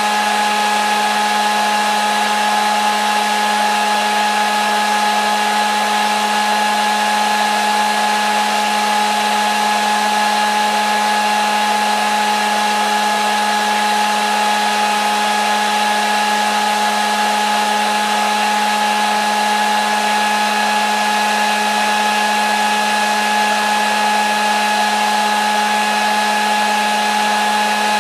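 Hair dryer running steadily on one setting: an even motor whine with a strong low hum and rushing air, unchanging throughout.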